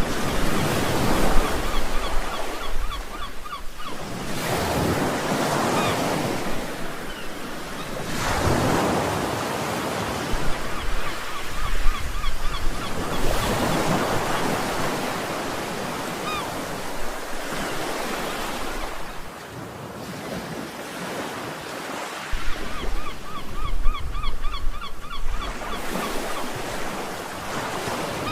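Ocean waves breaking and washing in, a rush of surf swelling and receding about every four to five seconds. A faint high warbling chirp comes and goes several times over the surf.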